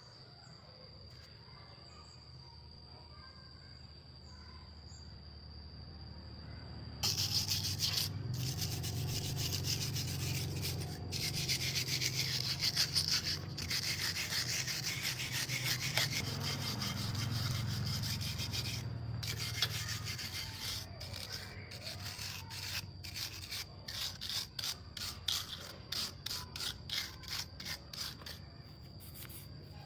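Abrasive rubbing on a part, as in hand sanding or scrubbing during cleaning. It starts abruptly about seven seconds in, runs continuously at first, and in the last third breaks into quick separate strokes.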